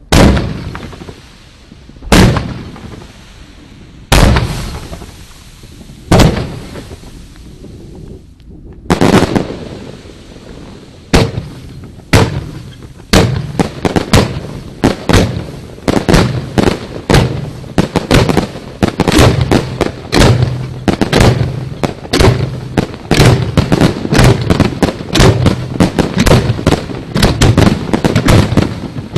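Aerial fireworks shells bursting: single bursts about every two seconds, then from about nine seconds in a dense, quickening barrage of many bursts a second.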